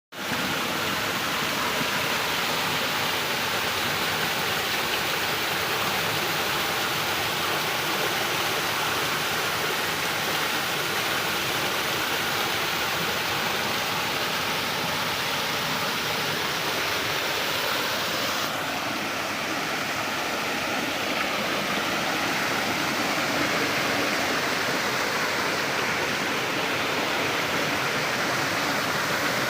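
Waterfall rushing steadily. About two-thirds of the way through, the sound turns a little duller.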